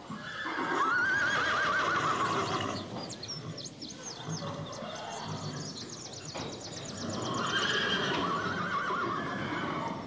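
A horse whinnying twice: a long, wavering call starting about half a second in, and a second one about seven seconds in.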